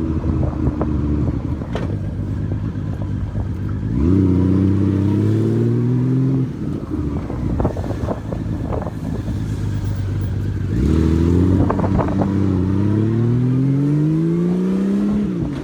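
Honda Valkyrie flat-six motorcycle engine pulling under throttle, its pitch climbing steadily through two accelerations, about four seconds in and again near the end, with a drop in revs between them.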